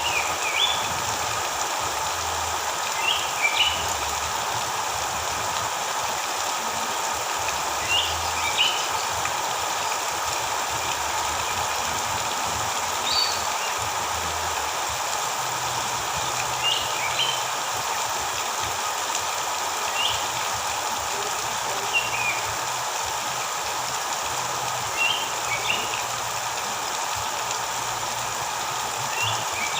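Short, high bird chirps, often in quick pairs, every two to five seconds over a steady, even hiss.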